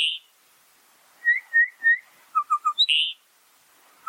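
Bokmakierie calling: a phrase of three quick short notes followed by a louder, higher note, repeated about every two and a half seconds. About a second in, three clear whistled notes come between the phrases.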